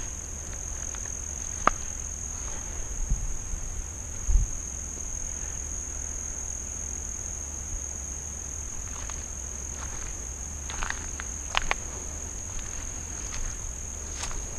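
Insects keeping up a steady high-pitched drone, with scattered faint clicks and a couple of low thumps around three and four seconds in.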